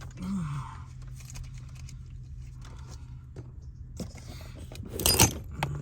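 Hand tools and small metal parts being rummaged through and handled, with light clicks and rustles and a loud metallic clatter about five seconds in, over a steady low hum.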